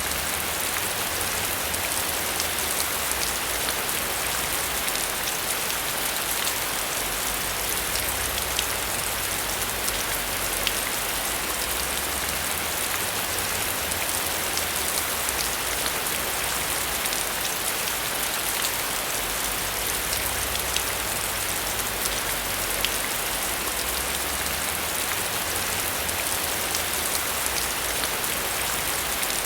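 Heavy rain falling steadily, an even hiss with sharp single drops ticking now and then.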